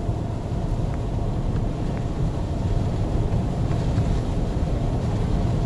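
Steady low road and engine rumble inside a moving car's cabin, with a few faint light ticks.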